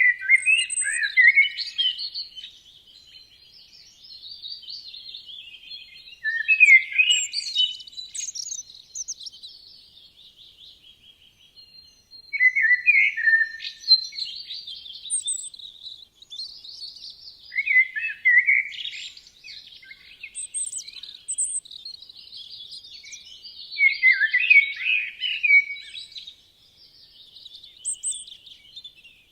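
Songbirds singing in a forest: loud, quick warbling phrases come roughly every five or six seconds, with softer high chirps and twitters in between.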